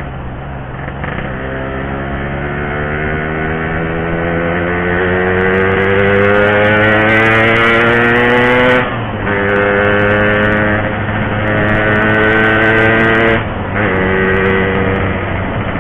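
Yamaha RX-King's 135cc two-stroke single-cylinder engine under hard acceleration, revs climbing steadily through a gear, dropping sharply at a shift about nine seconds in, climbing again and shifting once more near the end.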